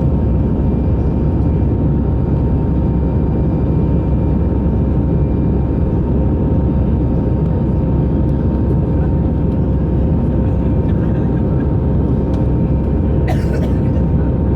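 Steady cabin noise of an Airbus A318 airliner in flight: an even roar of the jet engines and airflow heard from a window seat, with faint steady tones over it. About 13 seconds in, a brief sharp sound stands out.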